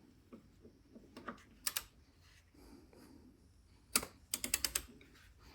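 Torque wrench clicking as it is handled and ratcheted: a pair of light clicks, a sharp click about four seconds in, then a quick run of about six clicks.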